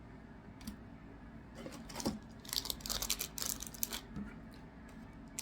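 Trading card packs and cards being handled: a quick run of crisp crinkles and clicks from about a second and a half in, busiest for a second or two, then dying down.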